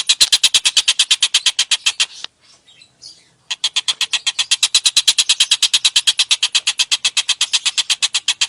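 A songbird's harsh, rapid chattering call: a fast, even run of sharp notes at about ten a second, breaking off about two seconds in and starting again a second and a half later.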